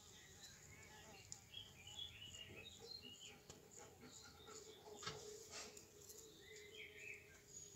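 Near silence with faint bird chirps from outside: short, scattered rising-and-falling calls, busiest about two and five to seven seconds in, over a faint steady hum.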